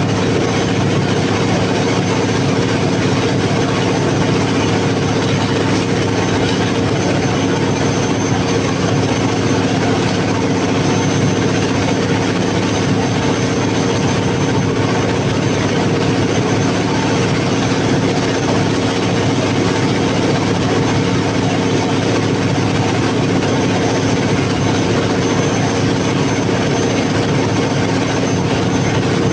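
Cummins KTA50 V16 turbocharged diesel generator engine running steadily at constant speed, with a faint high whine over the engine note.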